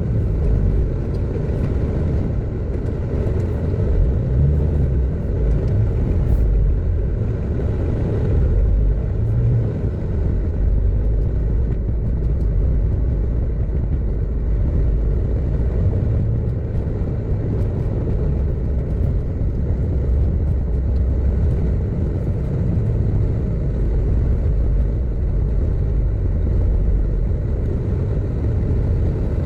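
A car driving, with steady low engine and road rumble.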